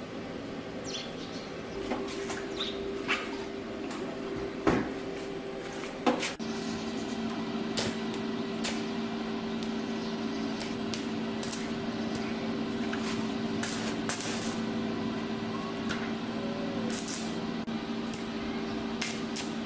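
Repair work on metal parts: scattered clinks and knocks of hand tools, with two sharper knocks about five and six seconds in, over a steady hum that gains a second, lower tone a little after six seconds.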